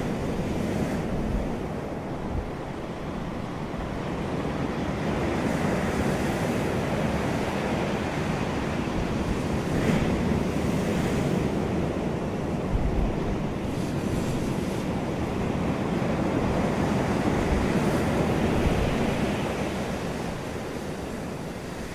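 Sea waves breaking and washing on a shore, a steady rush that swells and eases every few seconds, with wind buffeting the microphone.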